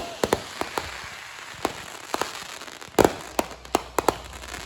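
Fireworks going off: a string of irregular sharp pops and crackles, with a louder, longer bang about three seconds in, followed by a quick cluster of pops.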